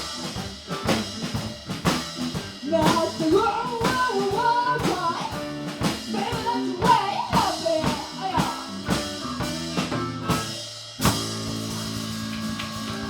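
Live blues band playing an instrumental passage: a drum kit beat under a bending lead line, typical of a blues harp (harmonica) in D played over a song in A. About eleven seconds in the band ends on one loud hit and lets a chord ring on steadily.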